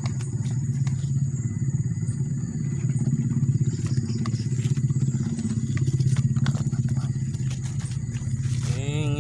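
A small engine running steadily with a fast, even pulse, with scattered light clicks; music starts near the end.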